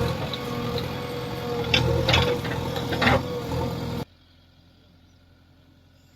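Diesel engine of heavy machinery running steadily, with a few sharp clanks about two and three seconds in. The sound cuts off abruptly about four seconds in, leaving only a faint hum.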